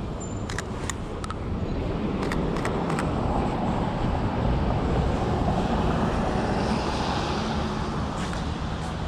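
City street traffic, with a vehicle passing that grows louder through the middle and fades near the end. A few sharp clicks sound in the first three seconds.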